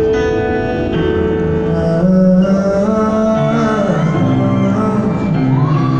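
Live concert music recorded from the audience: the opening of a pop ballad, with held chords and a voice coming in and gliding between notes from about two seconds in.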